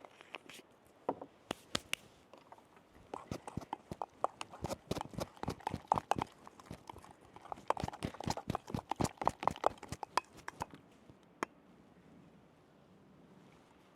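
A knife chopping on a cutting board: a fast, irregular run of knocks, several a second, that starts about a second in and thins out near the end.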